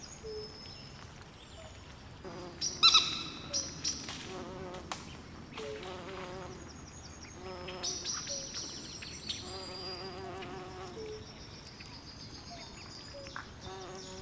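Night swamp ambience: frogs calling in low, warbling trills that recur every second or two under steady high-pitched chirping. A louder, sharper call stands out about three seconds in.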